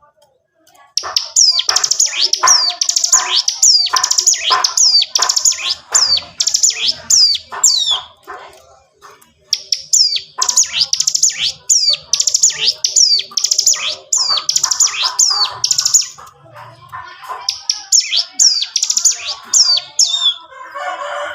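Ciblek gunung, a small prinia, singing nonstop in fast bursts of high, sharply falling notes: the rapid, drilling 'ngebren' song prized by bird keepers. It pauses briefly about a second in, again around the middle, and once more past the middle.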